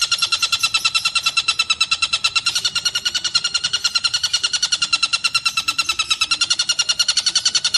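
Tengkek buto kingfisher calling in a fast, unbroken chatter of about ten sharp notes a second, steady and loud throughout.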